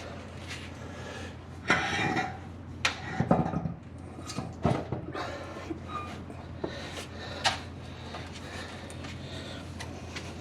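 Metal parts and tools clanking, knocking and scraping during front suspension work on a truck: scattered sharp knocks and clicks, a short rattling burst about two seconds in, over a steady low hum.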